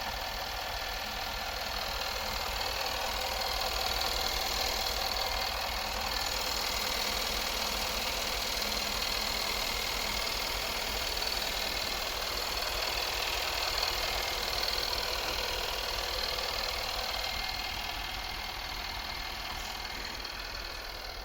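Jaguar F-Pace SVR's supercharged 5.0-litre V8 running with a rapid, even mechanical clatter, the strange noise the owner is documenting. It eases slightly near the end.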